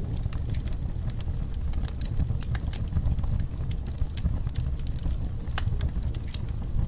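Wood fire burning in a fireplace: a steady low rumble of the flames with many quick, irregular crackles and pops.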